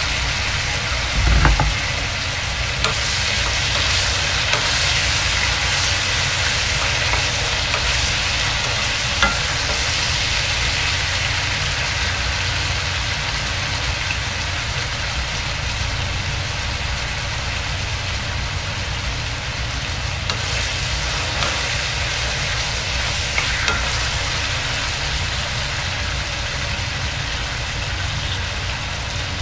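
Tomatoes and onions sizzling as they fry in a wok, stirred with a wooden spatula that scrapes and knocks against the pan now and then. A steady low hum runs underneath, and a dull thump comes about a second and a half in.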